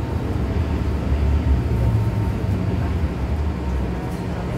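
MTR M-Train electric multiple unit (car A134) running at low speed, heard from inside the car: a steady low rumble of wheels and running gear.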